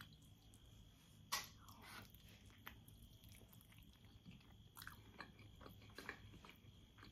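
Faint chewing and mouth sounds of someone eating soft steamed manti dumplings: scattered soft wet smacks and clicks, one louder about a second and a half in.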